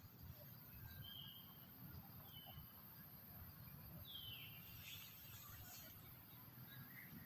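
Near silence: faint forest ambience with a few distant bird chirps, one about four seconds in sliding down in pitch.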